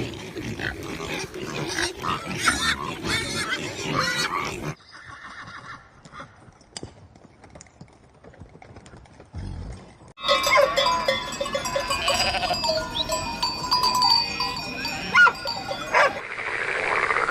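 Animal calls from several short clips cut one after another, with a quieter stretch in the middle.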